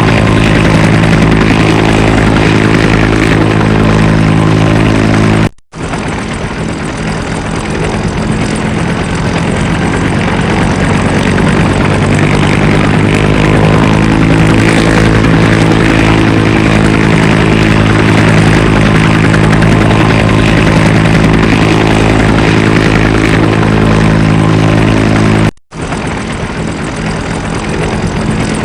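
Firefighting helicopter running: its rotor and engine give a steady tone over a low, pulsing beat. The sound cuts out for an instant twice, and its pitch shifts around the middle.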